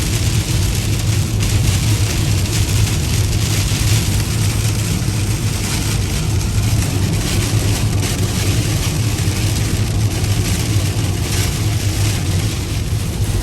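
Car driving on a highway in rain, heard from inside the cabin: a steady low drone of engine and road with an even hiss of rain and tyre spray.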